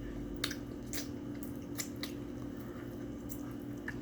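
Close-miked eating: chewing with several sharp, wet mouth clicks scattered through, over a steady low hum.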